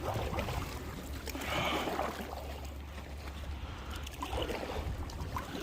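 Water lapping and trickling against the hull of a sit-on-top kayak drifting on choppy water, with a steady low rumble of wind on the microphone underneath.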